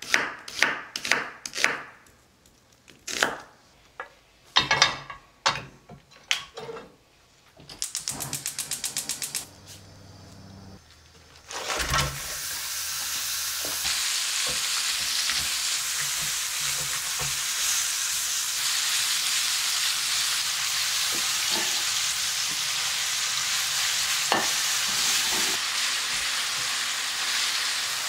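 A kitchen knife chopping cabbage on a wooden cutting board in a series of sharp strikes, then a quick run of fast, even clicks from the gas stove's igniter. About twelve seconds in, thin-sliced beef brisket and shredded green onion start frying in the pan with a steady sizzle, stirred with a silicone spatula, and this carries on to the end.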